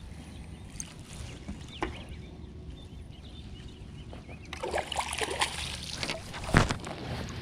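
Steady low hum of a fishing boat with light water noise; from about halfway in, irregular splashing and sharp knocks as a small bass is brought up to the boat.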